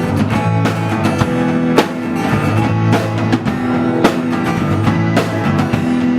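Band playing live with guitar and drum kit: steady strummed chords, with drum hits every half second to second, and no singing.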